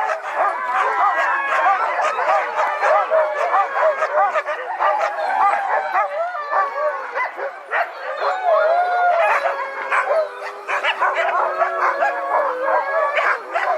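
A pack of sled dogs howling and barking together: many overlapping, wavering howls with short yips and barks mixed in, the usual din of a sled team waiting to set off.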